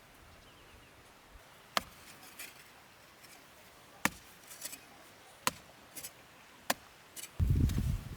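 Hand chopping: four sharp strikes about one to two seconds apart, each followed by a few lighter clicks. Near the end comes a sudden low rumbling thump.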